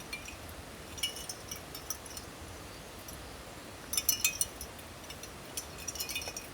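Small hard items clinking as they are handled, in three short clusters of light, high clicks, the busiest about four seconds in, over a steady hiss of rain or stream.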